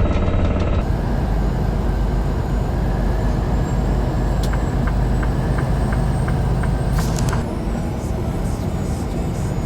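Semi-truck running on the road, a steady low rumble of engine and road noise, with a brief burst of noise about seven seconds in.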